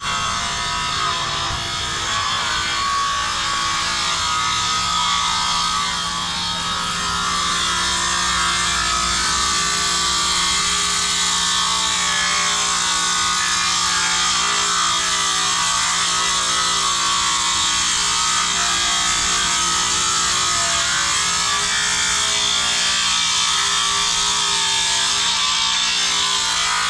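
A woodworking machine, a saw or planer cutting timber, running steadily with a hiss that holds without a break and a low hum beneath it.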